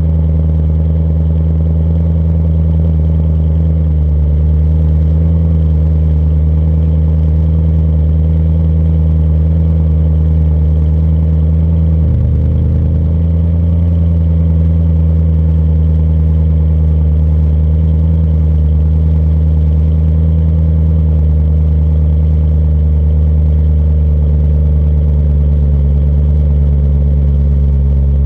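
BMW M3 E92's 4.0-litre V8 idling steadily after a cold start through an Eisenmann Race exhaust, with a brief dip in engine note about twelve seconds in.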